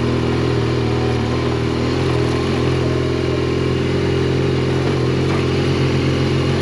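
Motorcycle engine running at a steady speed while riding, with road and wind noise.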